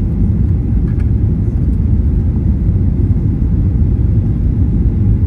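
Steady low rumble inside the cabin of a Boeing 737-800 airliner, from engine and airflow noise.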